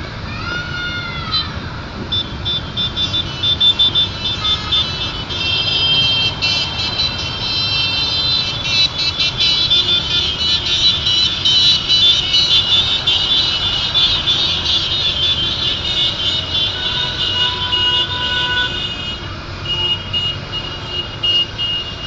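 A stream of motorcycles passing in traffic, their engines a steady rumble under many high-pitched horns sounding over one another. One rising-and-falling tone comes about a second in, and the horns are densest in the middle.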